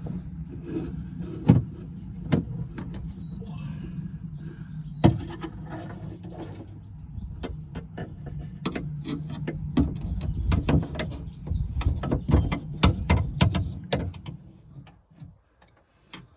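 Scattered clicks and knocks of a screwdriver and screws against the metal of a car's rear door, as the door handle's fixing screws are taken out from inside. The clicks come thickest about ten to fourteen seconds in, over a steady low hum that dies away near the end.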